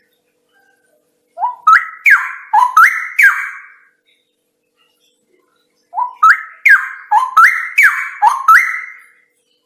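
Straw-headed bulbul (cucak rawa) singing: two loud phrases of rich, rising whistled notes, each phrase a quick run of five or six upward-sliding notes. The first comes about a second and a half in, the second starts about six seconds in.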